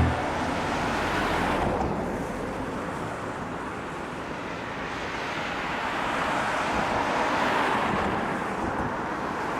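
Strong wind blowing over choppy lake water, buffeting the microphone, with waves washing. The noise swells for a few seconds about two-thirds of the way through, then eases.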